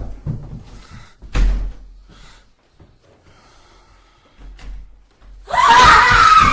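A heavy door slams shut with a low thud about a second and a half in, amid fainter knocks and bumps. Near the end a sudden, loud, harsh sound with a wavering pitch breaks in and stays loud.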